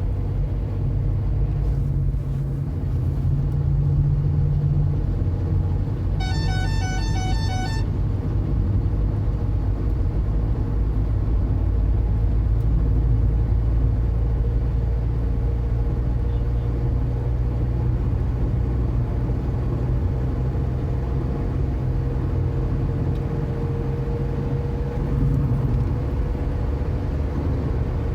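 Volkswagen Polo 1.2 MPI three-cylinder petrol engine running steadily under light throttle as the car gathers speed, with road noise. About six seconds in, a horn sounds as a rapid string of short beeps lasting under two seconds.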